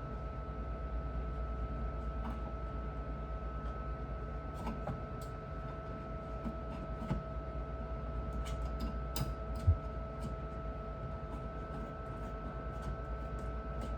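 A steady low hum with a few constant tones, over scattered light clicks and taps of objects being handled, with one sharper knock a little under ten seconds in.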